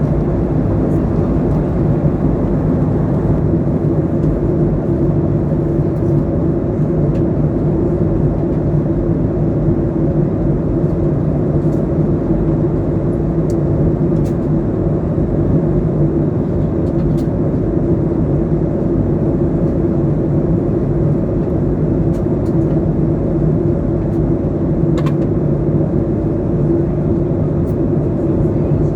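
Steady drone of an airliner cabin in flight: engine and airflow noise holding at one even level, with a few faint clicks.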